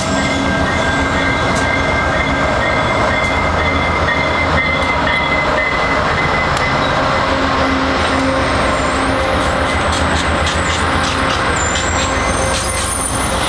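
Freight train rolling past close by: a loud, steady rumble of wagons on the rails, with high-pitched wheel squeal and a run of quick clicks from the wheels over rail joints in the second half.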